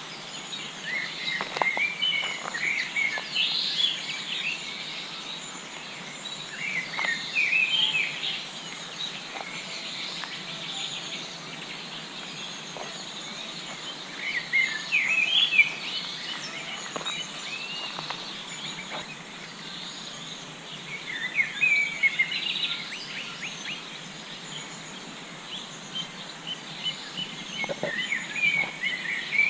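Songbirds singing by a river, with phrases of chirping song coming in bouts every several seconds over a steady background hiss.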